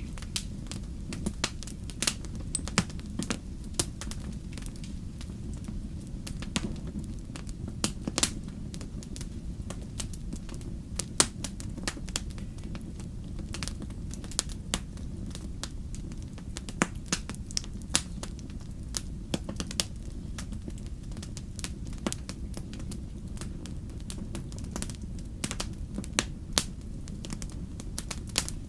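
Wood fire in a fireplace burning with a steady low rumble and frequent, irregular sharp crackles and pops.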